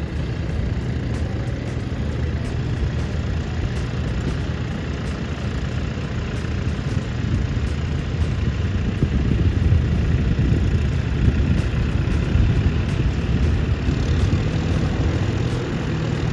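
A large vehicle engine running steadily with a low rumble.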